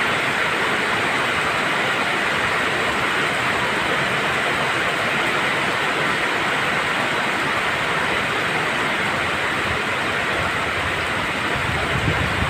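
Steady heavy rainfall, an even unbroken hiss. A low rumble of thunder begins right at the end.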